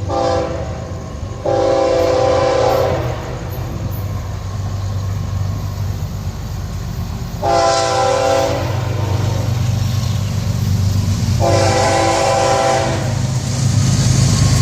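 Diesel freight locomotive air horn sounding three long chord blasts over the steady low rumble of the approaching train's engines, as a train horns for grade crossings.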